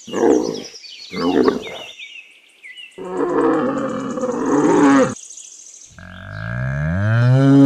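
Camel vocalising: two short grunts, then a longer rough, gurgling bellow, then a drawn-out moan that rises in pitch near the end.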